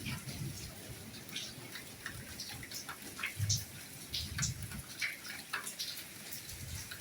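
Light rain falling as scattered individual drops striking and dripping at irregular intervals. A few drops land with a duller, lower knock.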